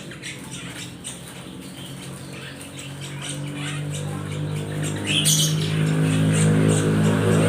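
Small birds chirping and calling, with a sharper squawk about five seconds in, over background music of held low notes that grows louder from about halfway through.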